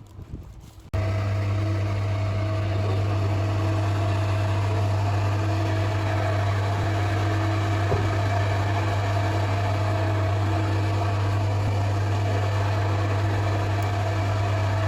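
A machine's engine or motor running with a steady low hum, starting abruptly about a second in and holding at an even pitch and level.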